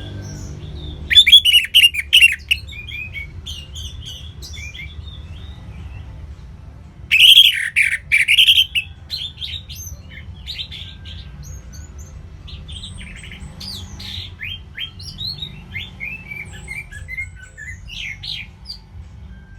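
Songbirds chirping and twittering steadily, with two loud bursts of rapid chirping, one about a second in and one about seven seconds in.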